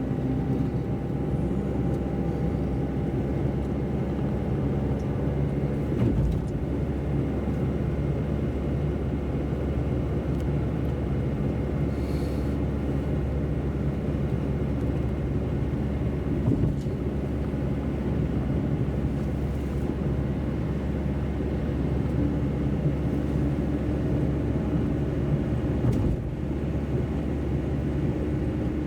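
Car driving on a wet road, heard from inside the cabin: a steady low rumble of engine and tyres, with three short knocks, about ten seconds apart.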